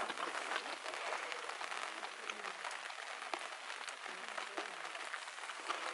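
Food sizzling on a hot outdoor iron griddle: a steady crackling hiss with scattered small pops.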